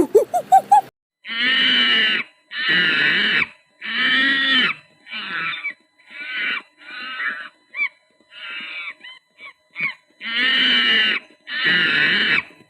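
An animal giving a series of loud, harsh calls about a second long each, separated by short pauses, with shorter and weaker calls in the middle and loud ones again near the end.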